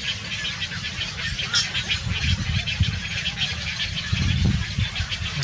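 Birds chirping continuously over a low rumble, with one short rising call about a second and a half in.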